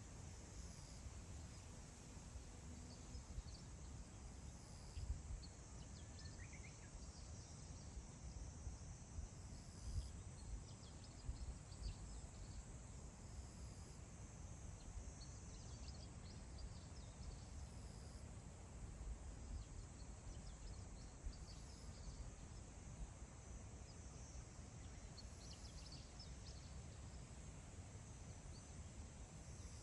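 Faint grassland ambience: light wind rumbling in gusts, over a steady high chirring of insects, with one brief bird chirp about six seconds in.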